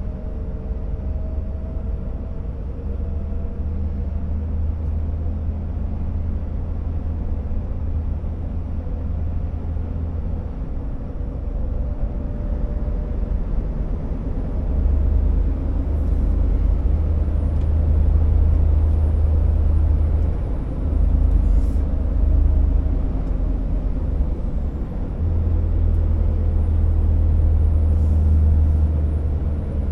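Scania R650 timber truck's V8 diesel engine running under load while driving, a steady low drone that grows louder about halfway through, with two short dips.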